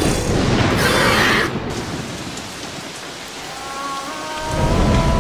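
Steady rain, louder in the first second and a half, then a low rumble of thunder swelling near the end. A few held music notes come in over it.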